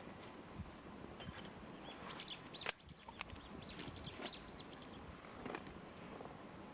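Small songbird calling: a run of short, arched, high chirps from about two seconds in, lasting two or three seconds. A single sharp click falls in the middle of the calls.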